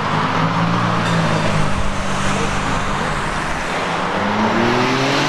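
Porsche 911 flat-six engine pulling along at a steady note, then rising in pitch as the car accelerates over the last second or so, over a haze of road and traffic noise.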